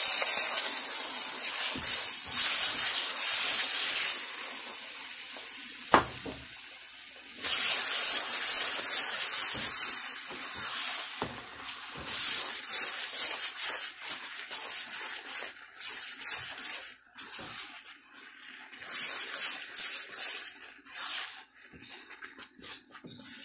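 Tomato paste sizzling and spattering as it hits the hot oil and fried spice masala in the pan, then frying on as it is stirred in with a spatula. The hiss fades about four seconds in, comes back loud at about seven and a half seconds, and then comes and goes with the stirring. There is one sharp knock of the spatula on the pan about six seconds in.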